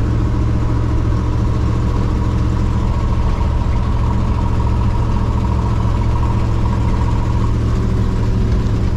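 1954 Chevrolet five-window pickup's engine running at a steady speed as the truck is driven.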